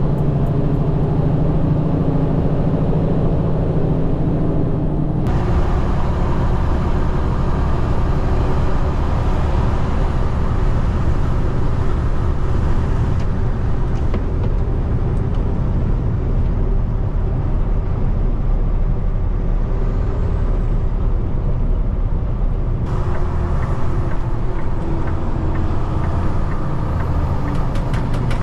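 Peterbilt 589 dump truck's diesel engine and road noise while driving, a steady low rumble. The engine note changes abruptly about five seconds in and again near 23 seconds.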